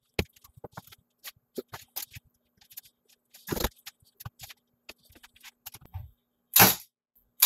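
Wood pieces knocking and clattering as they are handled, with three louder sharp shots from a cordless 18-gauge narrow-crown stapler driving staples, the first about halfway through and two close together near the end.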